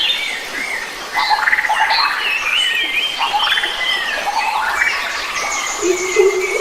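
Several forest birds singing and calling at once, with overlapping whistled, warbling phrases and quick up-and-down sweeps; a lower, repeated call joins near the end.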